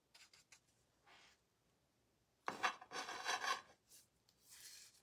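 Small clicks and rubbing, scraping handling noises of painting supplies as yellow paint is picked up, the loudest a scrape of about a second in the middle.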